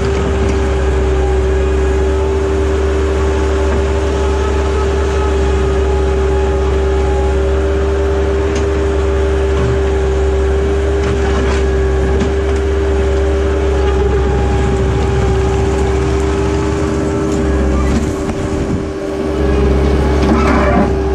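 Skid steer loader's engine running steadily under work, with a constant whine over a deep rumble; the level dips briefly near the end.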